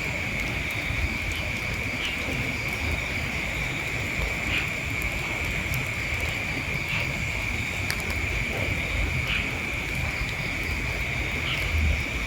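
Outdoor insect chorus: a steady, unbroken high-pitched drone with a faint chirp about every two seconds, over a low rumble of wind on the microphone.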